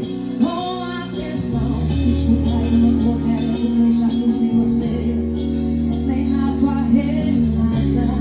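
Live band music with a woman singing; a strong bass line comes in about two seconds in.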